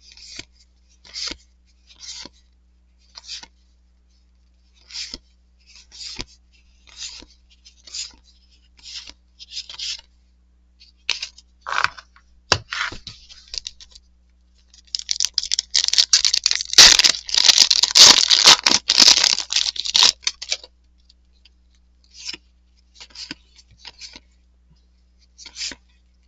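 Trading cards swishing as they slide off a stack one at a time, roughly once a second. About fifteen seconds in comes a louder stretch of about five seconds of crinkling and tearing, a card pack's wrapper being torn open.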